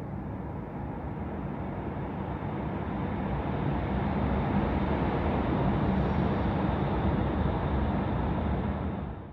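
Road vehicle noise, a steady rumble of engine and tyres that grows louder over the first few seconds, then holds and cuts off abruptly at the end.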